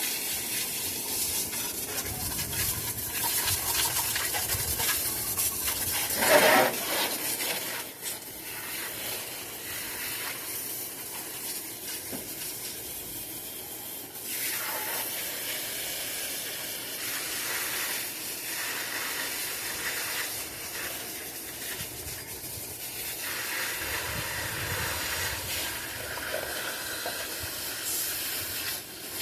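Spray hissing over a truck's engine as it is cleaned of oil residue, in several long passes that stop and start again.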